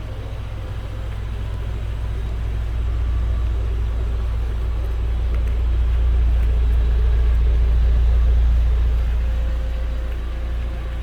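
Proton Iriz engine running through an aftermarket STi Racing exhaust with a steady low rumble. The rumble grows louder over the first several seconds and eases off near the end.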